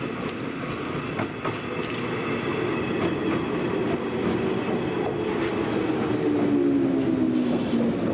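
Old JNR-type electric train running on rails, with a steady rumble and scattered wheel clicks. About two-thirds of the way in, a whine falls steadily in pitch.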